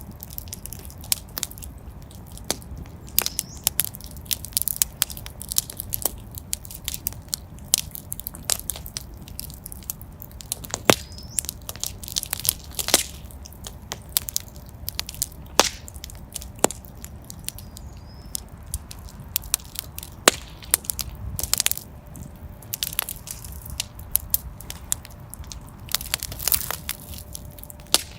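Wood fire in a fireplace crackling: irregular sharp pops and snaps, a few of them loud, over a steady low background noise.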